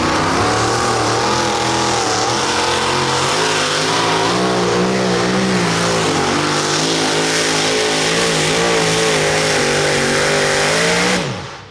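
Super modified two-wheel-drive pulling truck's engine running at high, wavering revs under load during a pull. It falls away sharply near the end, as the engine is shut off or the throttle is closed.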